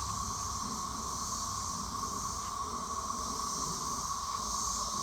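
A dense chorus of periodical cicadas singing together as one steady, unbroken drone, strongest in a high hum near 1 kHz with a thinner, higher hiss above it. A low rumble runs underneath.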